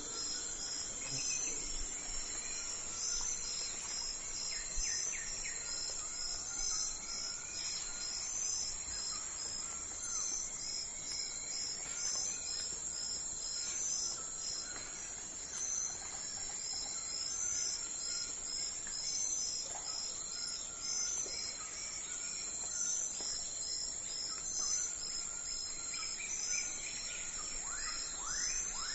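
Early-morning outdoor ambience: insects trilling in a steady high drone with an evenly repeating chirp, and scattered bird calls over it, with a quick run of bird notes near the end.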